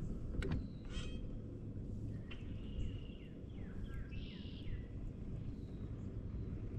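Songbirds calling: a short trill about a second in, then a run of quick downward-sliding chirps between about two and five seconds, over a steady low rumble. A single sharp click sounds about half a second in.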